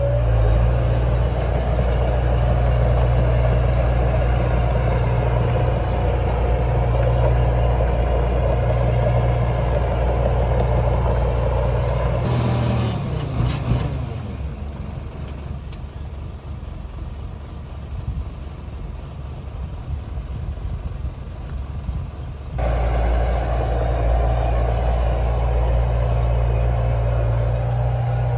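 Heavy diesel engine of earthmoving machinery running steadily. About twelve seconds in, the sound cuts to a quieter, rougher engine rumble with a falling whine, then cuts back to the steady engine about eight seconds before the end.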